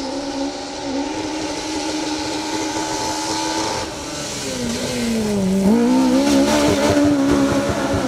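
Rally car engine running at high revs. About four seconds in the revs drop away as the car slows, then climb again and hold, louder than before.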